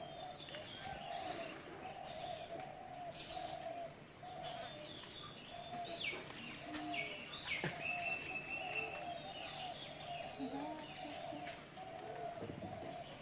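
Outdoor birdsong: a steady run of short low notes repeated about twice a second, with several higher chirps and calls from other birds over it.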